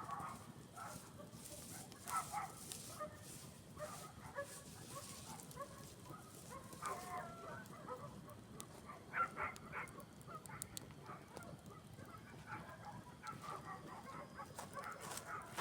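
Campfire ambience: scattered short calls of distant farmyard fowl, with occasional light crackles from the burning fire.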